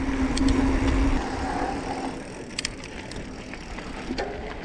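Mountain bike disc brakes dragged hard to bed in and heat up the pads: a steady low brake hum for about the first two seconds over tyre and wind rumble, then rolling noise with a few sharp clicks.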